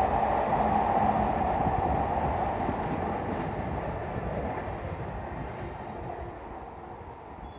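A Hanshin Railway electric train running away down the track, its wheel and motor rumble fading steadily as it recedes.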